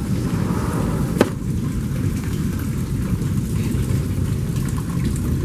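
A steady low rumble without let-up, which the man filming takes for a nearby tornado. There is one sharp click about a second in.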